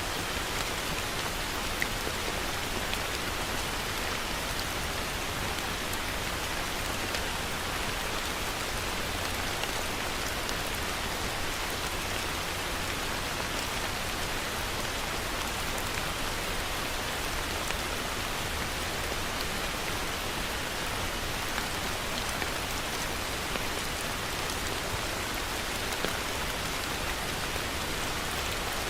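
Heavy rain falling steadily, with a low rumble beneath it and the odd sharper drop ticking out of the hiss.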